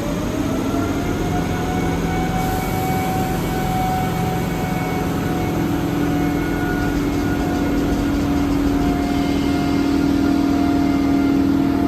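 Train in the station with a loud steady rumble and a whine that rises at the start and then holds steady; a lower hum joins about halfway through.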